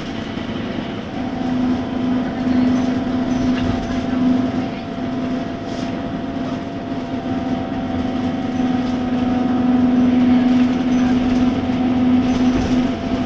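Scania K230UB bus with a Scania D9C diesel engine and ZF six-speed automatic gearbox, running continuously. It gives a steady low hum with a fainter, higher whine that grows a little stronger about halfway through.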